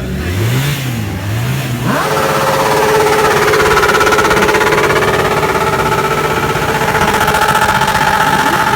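Motorcycle engine revved up and down in quick blips, then from about two seconds in held at a steady high pitch, louder.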